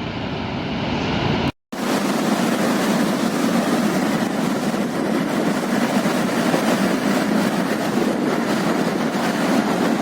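The flooded Teesta River rushing, a steady loud noise of fast, heavy water, broken by a brief silent cut about a second and a half in.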